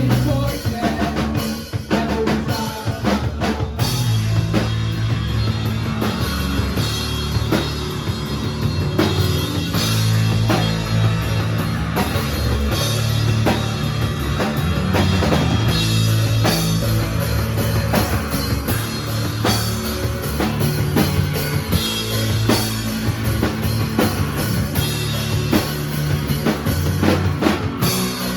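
Live rock band playing in a math-rock/emo style, with drum kit hits over a moving bass line.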